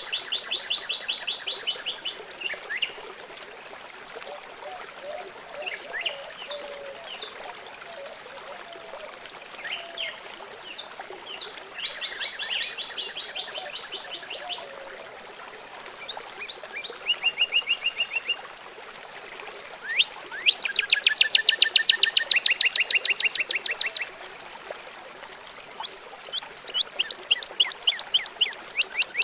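Songbirds singing in rapid trills, each a fast run of repeated notes lasting a few seconds, coming about five times with the loudest about two-thirds of the way through, over a steady faint trickle of running water.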